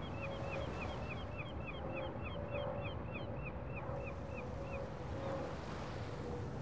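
Riverside outdoor ambience: a steady low rumble, a small bird calling in a fast run of short high chirps that stops about five seconds in, and a faint steady drone.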